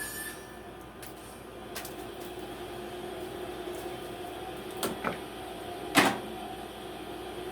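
A few small knocks and clicks of objects being handled, the loudest a sharp knock about six seconds in, over a steady low hum.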